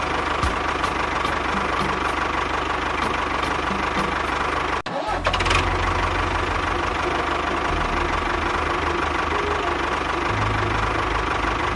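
A small engine running steadily. It cuts out for an instant about five seconds in and comes back with a heavier low rumble.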